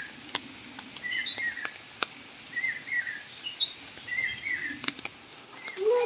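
A bird calling outdoors in short chirping phrases, repeated about every second and a half. A few sharp clicks fall in between.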